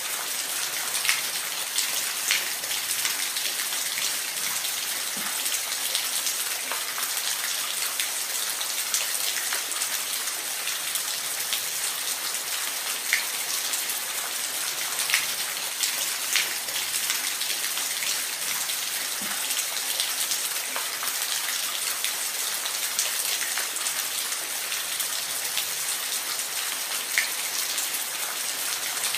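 Steady rain falling on a surface, an even hiss with scattered louder individual drops.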